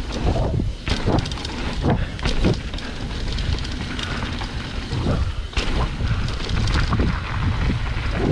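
Wind buffeting the microphone of a camera carried by a rider going downhill, a steady rumble broken by irregular knocks and jolts from the rough ground.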